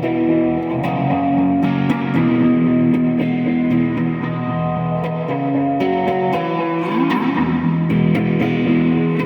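Guitar music: sustained notes changing every second or so, with an effects-laden, lightly distorted electric guitar tone.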